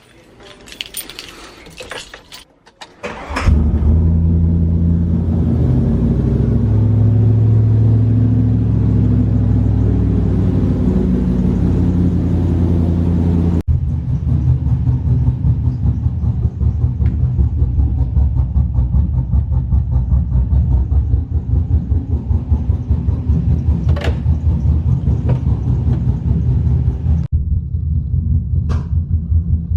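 A Ram pickup's engine starting after a few clicks about three seconds in, then running loudly at idle; after an abrupt break about halfway through, the idle goes on with a steady, even pulse.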